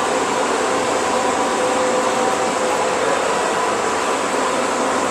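Band saw running steadily: an even mechanical noise with a few constant tones through it.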